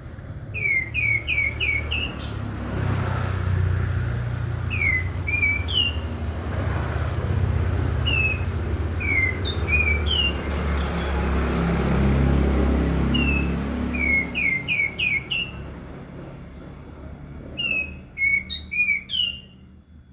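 Katem songbird singing in quick runs of short, downward-sliding chirps, three to five at a time, repeated every few seconds and crowding together near the end, over a steady low rumble.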